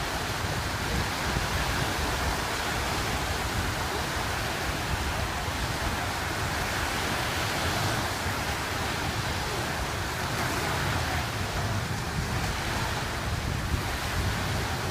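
Steady wind buffeting the microphone over a continuous rush of waves on open water.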